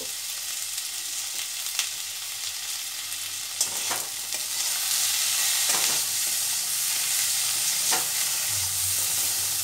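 Potato sticks and sliced onion sizzling in oil in a stainless steel kadai, with a metal spatula scraping and knocking against the pan as it stirs. The sizzle grows louder about four seconds in, once the stirring gets going.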